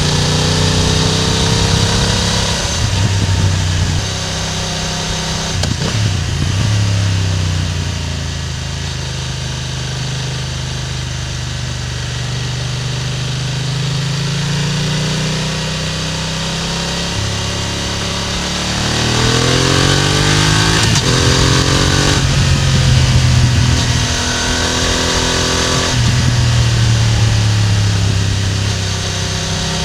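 BMW F900R parallel-twin motorcycle engine and exhaust, heard close to the exhaust while riding. The engine note rises and falls with the throttle, and about two-thirds of the way in it climbs through several quick gear changes.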